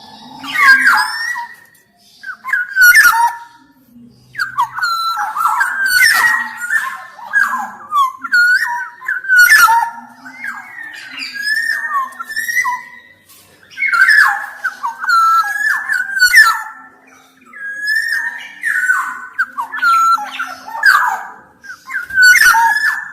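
Black-naped oriole (kepodang emas) singing: loud, busy phrases of whistled notes that glide up and down, mixed with harsh notes, each run lasting a second or two, with short pauses between.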